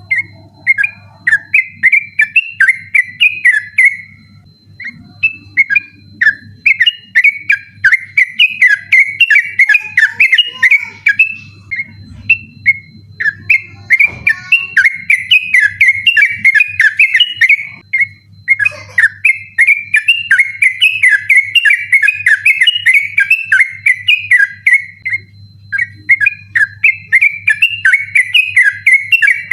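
Yellow-vented bulbul singing its 'ropel' song: long runs of rapid, bubbling notes, insistent and repeated, broken by brief pauses of about a second.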